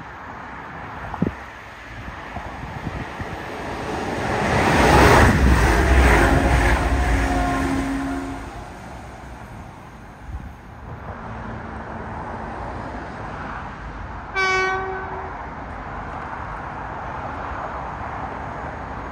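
A train passes at speed, rising to its loudest about five seconds in and fading by nine seconds, with a rush of wheel and air noise. About fourteen and a half seconds in a train horn gives one short blast.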